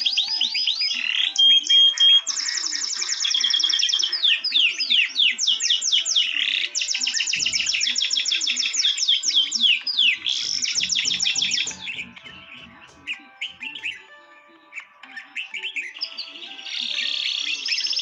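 Songbirds singing in fast, repeated chirps and trills over soft background music. The birdsong thins out and gets quieter about two-thirds of the way through, then picks up again near the end.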